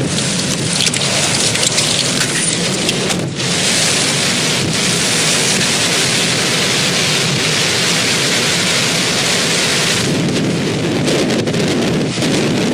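Heavy rain in a thunderstorm, a loud, steady hiss with a brief break about three seconds in.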